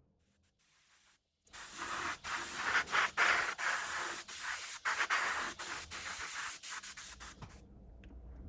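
Abrasive hand rubbing, like sanding, on a part of an old coffee grinder being restored. It comes as a run of quick back-and-forth strokes that starts about a second and a half in and stops near the end.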